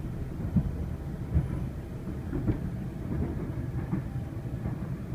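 Interior of a Sydney Trains Waratah electric double-deck train pulling out of a station: a steady low rumble of the wheels on the rails. Two sharp knocks come about half a second and a second and a half in, with a few fainter clicks after.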